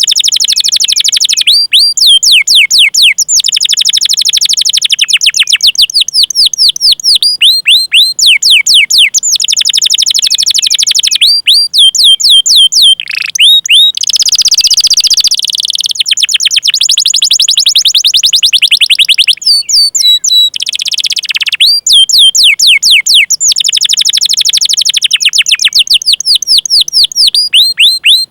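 Domestic canary singing a long, fast song: rapid runs of high, downward-sweeping 'cuit cuit' chirps and rolled trills, with a buzzy passage about halfway through.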